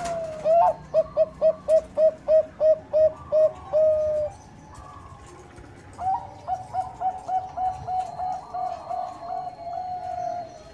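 Zebra dove (Bangkok-bred perkutut) singing: a run of about a dozen rapid, evenly spaced cooing notes ending on a longer held note, then a second similar run starting about six seconds in.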